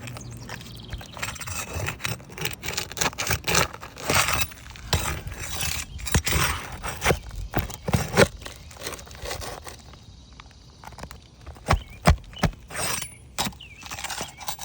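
Irregular scraping, clicking and squeaking as a metal tool works under asphalt roof shingles to pry out a roofing nail, with several sharp knocks near the end.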